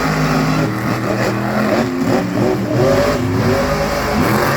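Monster truck engines revving hard, several engine notes overlapping and rising and falling in pitch during a straight-line drag race.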